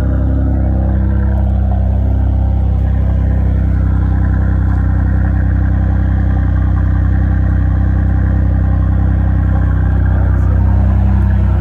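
Chevrolet Monte Carlo engine with a muffler delete running steadily through its open exhaust, with a deep, low exhaust note and a slight swell near the end.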